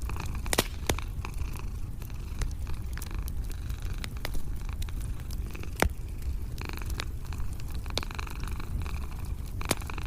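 Cat purring steadily in a low rumble, over a crackling wood fire with scattered snaps and a few louder pops.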